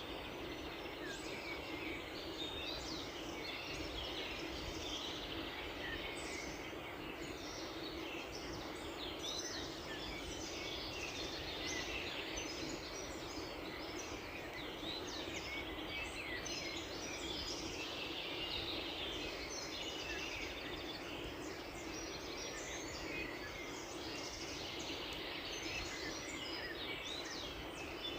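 Many small birds chirping and singing at once in a dense dawn chorus, with short overlapping calls all the way through, over a steady background rush.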